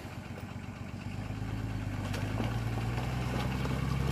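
Off-road 4x4's engine running, its pitch rising slowly and growing louder as the engine speed picks up.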